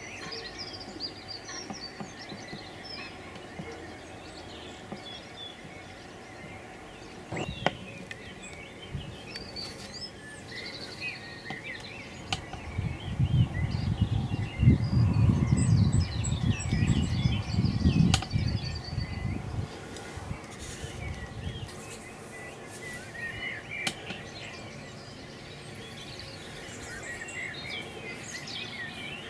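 Small songbirds chirping and singing, with a low rumble from about 13 to 19 seconds in and a couple of brief knocks.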